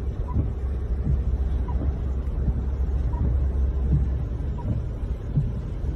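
A steady low rumble of storm wind on the microphone with irregular dull thumps, and a faint short beep repeating about every second and a half.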